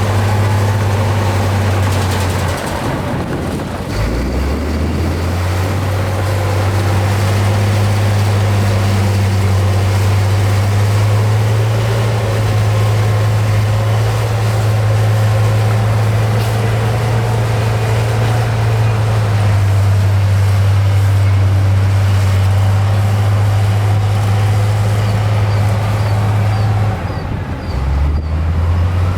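Heavy earthmoving machine's diesel engine running hard, its note falling sharply about four seconds in and climbing back, then dipping and picking up again near the end.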